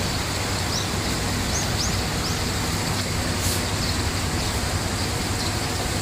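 Small birds chirping: scattered short, high chirps that sweep upward, over a steady rushing background noise.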